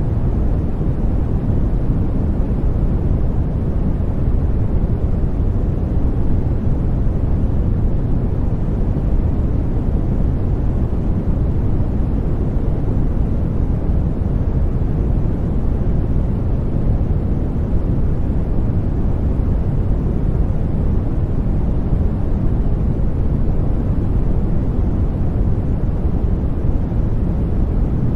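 Continuous white-noise sleep sound: an even, unchanging deep rushing hiss, heaviest in the bass, with no breaks or events.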